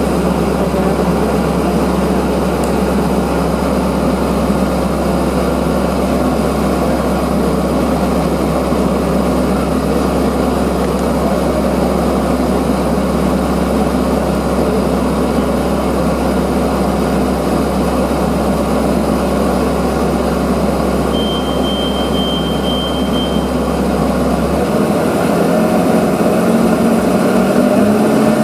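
Porsche 918 Spyder's V8 engine idling steadily, its pitch starting to rise near the end as it begins to rev.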